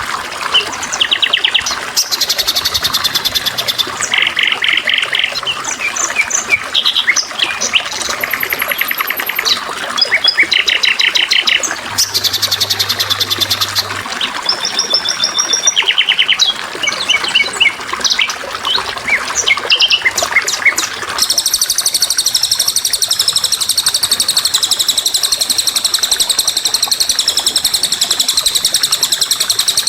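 Songbirds chirping and trilling in short, quickly repeated high phrases. About two-thirds of the way in, this gives way to one continuous high buzzing trill.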